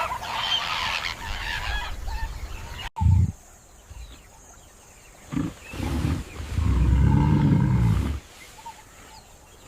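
Wild animal calls. Busy, higher-pitched calls fill the first three seconds and stop at a sudden cut. Short low grunts follow, then a long, loud, low roar.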